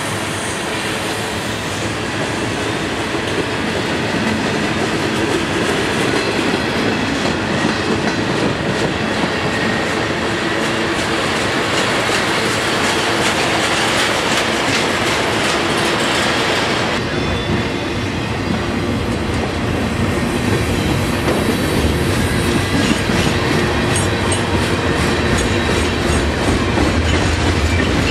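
Freight train cars rolling past close by: a steady rolling rumble of steel wheels on rail, with repeated clicks as the wheels cross rail joints. About 17 seconds in the sound changes abruptly to a deeper rumble as tank cars pass.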